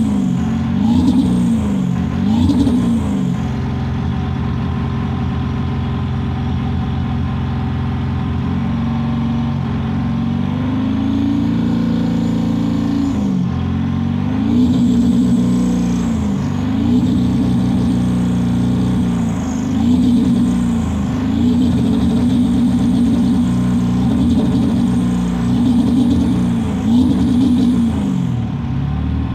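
Ford 7.3 Power Stroke V8 turbo-diesel being revved in short repeated blips, each rising and falling in about a second. It holds steady for several seconds in the middle, then blips again repeatedly to the end. The engine is one that misfires and smokes blue under throttle.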